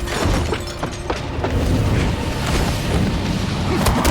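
Action-film soundtrack: music under heavy booms and several crashing, shattering impacts.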